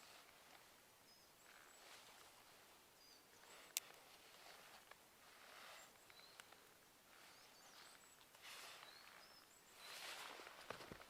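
Near silence with faint small-bird calls: short high chirps now and then, over soft swishing and one sharp click a few seconds in.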